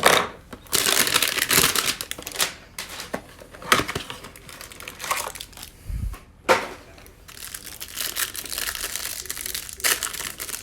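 Trading-card hanger box packaging being torn open and crumpled by hand: irregular crinkling and crushing rustles, with a dull thump about six seconds in.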